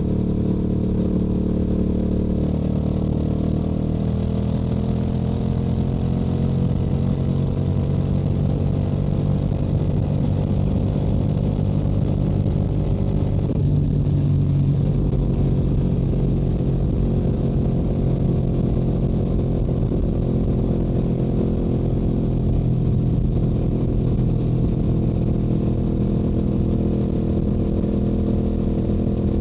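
Stock Yamaha R7's 689 cc parallel-twin engine and exhaust running at highway cruising speed, a steady note whose revs climb gently a few seconds in and then hold.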